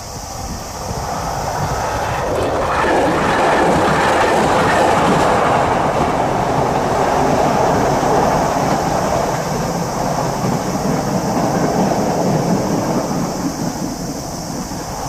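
Train crossing a steel railway bridge, growing louder over the first few seconds, loudest through the middle and slowly fading toward the end.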